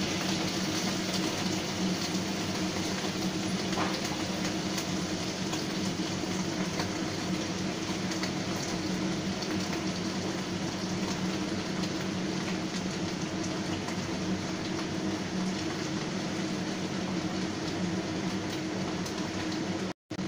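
Vegetables sizzling and crackling in a hot wok as shredded Chinese cabbage is added, over a steady low hum.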